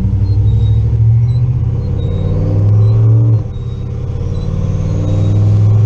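Turbocharged LS V8 in a Chevy C10 pickup driving on wet roads: the engine note climbs, falls away suddenly about halfway through, then climbs again. The engine is still cold, not yet at operating temperature. Short squeaks from the windshield wipers recur about once a second.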